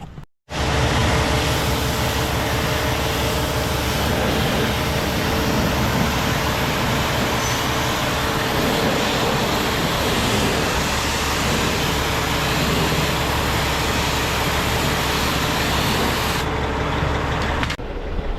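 Heavy diesel truck running with a steady low hum under a constant loud hiss, starting abruptly after a short silence and changing suddenly near the end.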